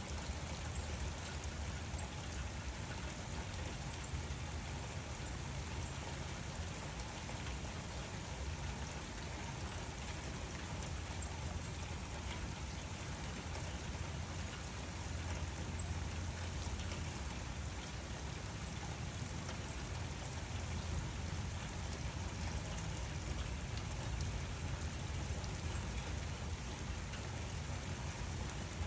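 Steady rainfall, an even hiss of drops with faint scattered patters, over a constant low rumble.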